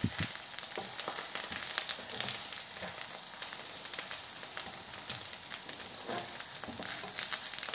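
Sliced onions and spices frying in oil in a coated frying pan: a steady sizzling hiss full of fine crackles, with the occasional scrape of the mixture being stirred.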